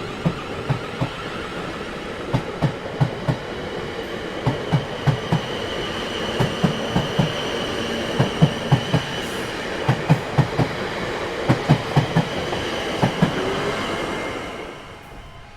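Train rolling by, its wheels clacking over rail joints in quick groups of beats over a steady rumble, with a high steady tone above. It fades away near the end.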